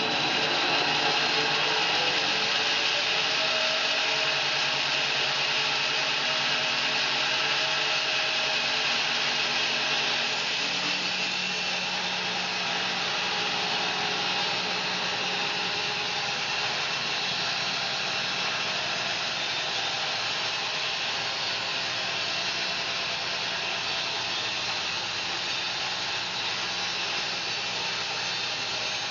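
Home-built bandsaw mill cutting a fir log: a steady, loud hiss of the band blade sawing through the wood, with the mill's machinery running underneath.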